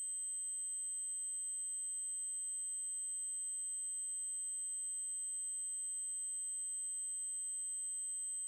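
Steady 8192 Hz triangle-wave test tone: a single high, unchanging pitch.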